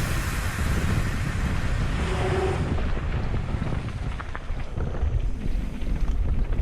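Wind rumbling on the microphone over the steady rush of a mountain creek.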